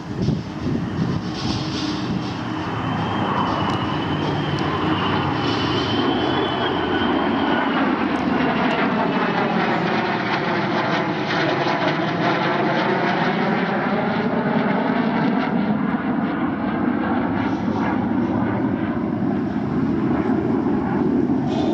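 Airshow aircraft flying low past overhead: loud, steady engine noise that swells as it passes and drops away at the very end, with a thin high whine through the first several seconds.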